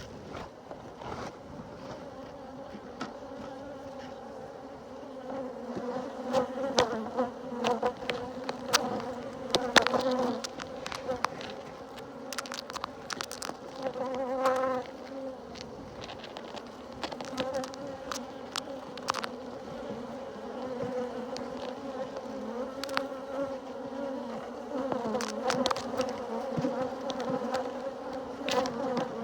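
Honeybees buzzing in a steady drone around an open hive, with scattered clicks, knocks and rustling close to the microphone.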